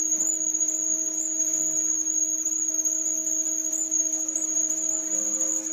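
A machine running steadily, giving a constant high whine over a lower hum.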